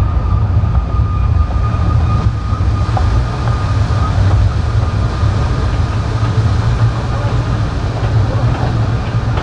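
Kurobe Gorge Railway narrow-gauge train running along the line: a steady, loud low rumble of wheels on the track, with a faint thin whine in the first couple of seconds.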